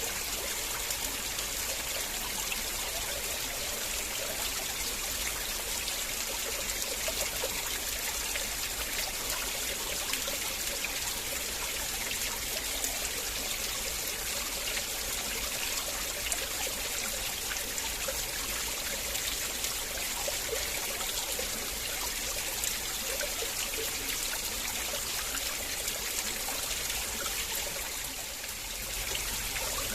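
River water flowing and trickling steadily, an even rushing with small splashes throughout. The level dips briefly near the end.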